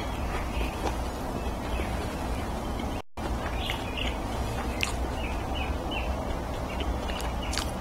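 Close-miked chewing of fried chicken and corn, with small wet mouth smacks and clicks coming every fraction of a second over a low steady rumble. The sound cuts out completely for a moment about three seconds in.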